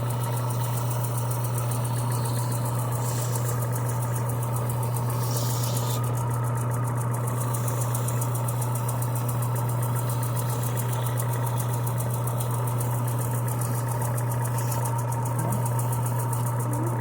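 Electric power tool motor running at a steady speed with a constant low hum, as a metal handle is sanded.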